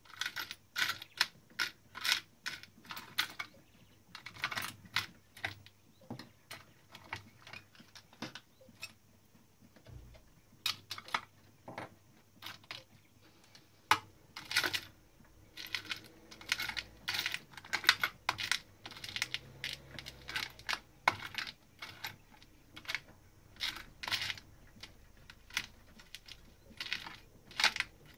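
Irregular sharp clicks and small metallic clinks in scattered clusters, from hands working on a Klein Adler 2 portable typewriter's mechanism and its small metal parts.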